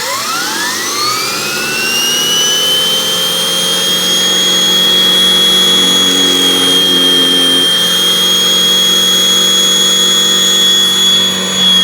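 Miele canister vacuum running with a Vacuflo T21 electric powerhead, its brush roll spinning freely: the motor whine climbs in pitch over the first couple of seconds as it spins up, then holds at a steady high whine over a lower hum.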